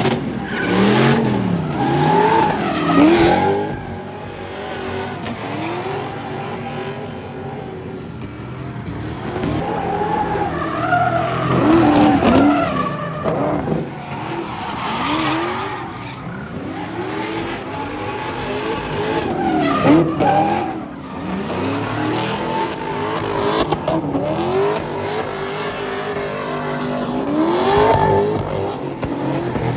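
Pickup truck with a 5.3-litre LS V8 drifting, its engine revving up and dropping back again and again while the tyres squeal and skid.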